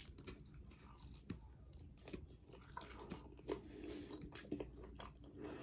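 Faint close-up chewing and crunching of crusty baked chicken: a scatter of small crunches and mouth clicks.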